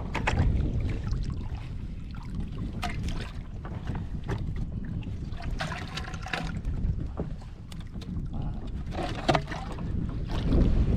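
Wind rumbling on the microphone and water against a plastic kayak hull, with scattered light knocks and clicks from handling gear on the kayak.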